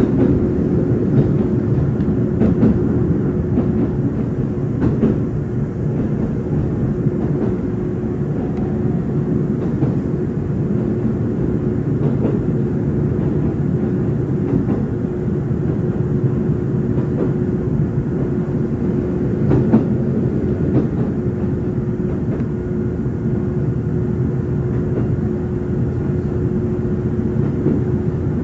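Izuhakone Railway 5000-series electric train heard from inside the passenger car while running at a steady speed: a continuous rumble of wheels on rail with a steady hum, and scattered faint clicks of the wheels over rail joints.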